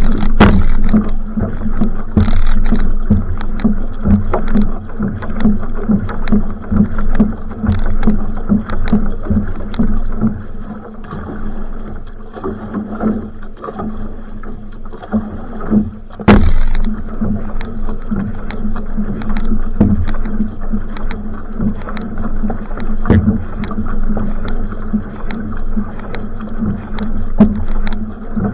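Va'a outrigger canoe paddled at sprint pace: the paddle blade catches and pulls through the water in a quick, regular stroke rhythm, with water rushing along the hull. The strokes ease off for a few seconds around the middle, and a single sharp splash or knock comes about sixteen seconds in.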